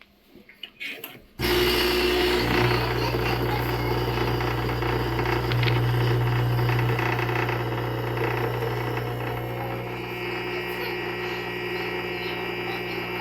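Rocket Giotto espresso machine: a few light clicks, then its pump switches on suddenly and runs with a steady, loud hum.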